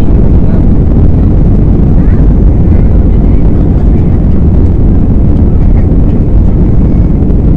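Steady, loud, low rumble in the passenger cabin of an Airbus A320-214: the noise of its CFM56 jet engines and the rushing air. Faint voices can be heard underneath.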